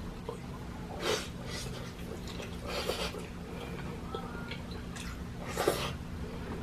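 A person chewing and eating close to the microphone: a few short, wet mouth noises and smacks over a steady low hum.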